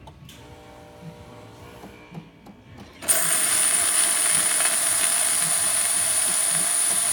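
Steam from a Jura J5 espresso machine's steam nozzle comes on suddenly about three seconds in, as a loud, steady hiss. The first three seconds are quieter, with faint steady tones.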